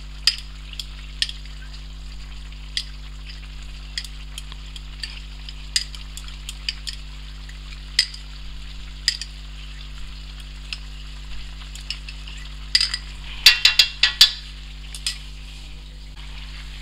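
Chicken sizzling in an iron karahi over a high flame, with scattered sharp clicks of a spoon scraping cream into the wok, and a quick flurry of clicks about three-quarters of the way through.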